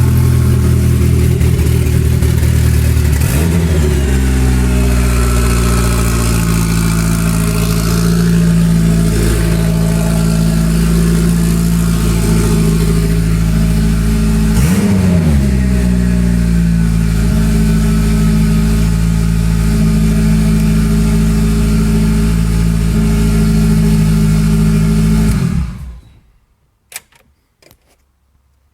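Eagle Talon's four-cylinder engine idling steadily, still warming up after a cold start from sitting for a couple of weeks. The idle pitch shifts about four seconds in, dips and comes back up briefly around the middle, then the engine is switched off and stops abruptly near the end, leaving a few faint clicks.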